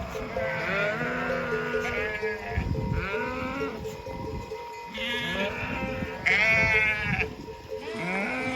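Sheep bleating repeatedly, about six separate wavering calls, the loudest a little past the middle, over steady background music.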